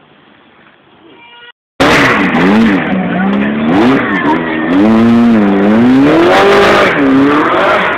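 Classic car's engine revving hard, its pitch swinging up and down again and again. It comes in loud after a brief cut-out about one and a half seconds in; before that, an engine fades away faintly.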